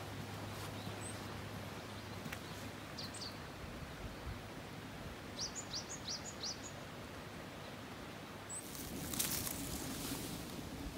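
Quiet outdoor ambience with a small bird's high, quick chirps: a couple about three seconds in, then a fast run of about six a couple of seconds later. Near the end comes louder rustling and crackling of grass and plants being handled close by.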